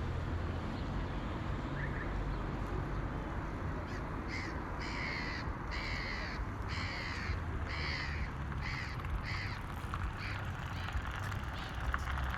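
A crow cawing, about nine harsh caws in a quick series, the last few fainter, over a steady low background rumble.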